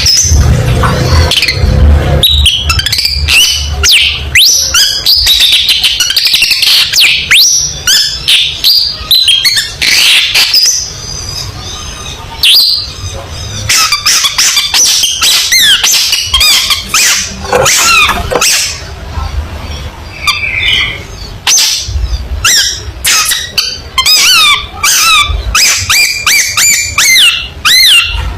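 Long-tailed shrike (cendet) singing loudly: fast, varied bursts of harsh chirps, squawky notes and quick whistled glides, broken by a couple of brief pauses. A low rumble sits underneath in places.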